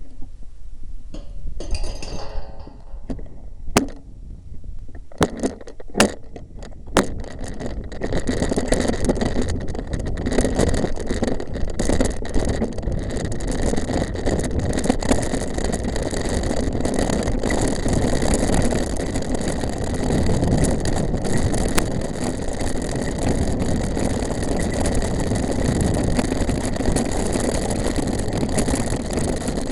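Mountain bike riding fast over a rough track: rushing wind and tyre noise with a constant rattle of the bike and clicks and knocks from bumps. It is lighter and broken by sharp knocks at first, then grows loud and steady about eight seconds in as the speed picks up.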